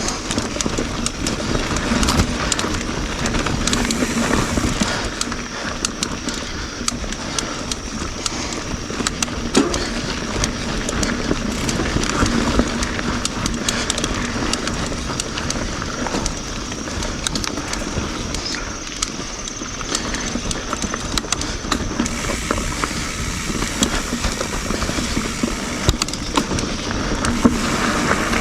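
YT Jeffsy full-suspension mountain bike riding fast over dirt singletrack: continuous tyre and trail rush with frequent sharp clicks and knocks from the bike rattling over roots and rocks.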